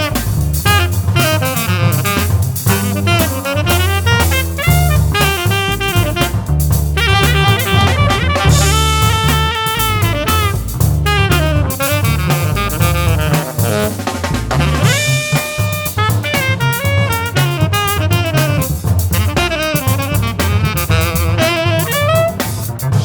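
Small-group jazz: a saxophone plays quick, busy melodic runs over a drum kit and a low bass line.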